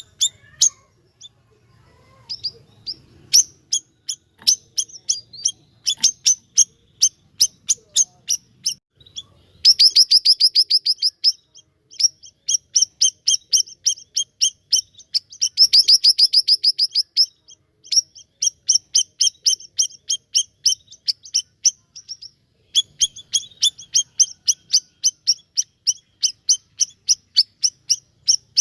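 Siri-siri songbird singing in full voice: long runs of sharp, repeated high chirps, several a second, breaking twice into fast rattling trills.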